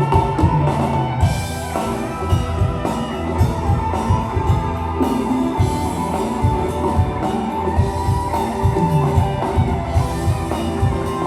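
Live rock band playing an instrumental passage: guitar over a drum kit and bass, with a steady beat.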